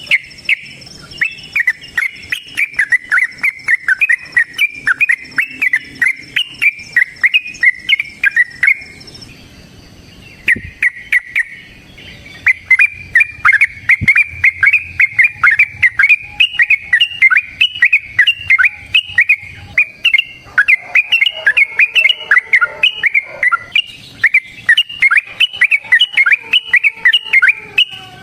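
Yellow-vented bulbul (trucukan) singing a long, rapid-fire chattering song of fast repeated notes. It breaks off for about a second around nine seconds in, then resumes. This is the continuous "ropel" song that keepers call a fighting song.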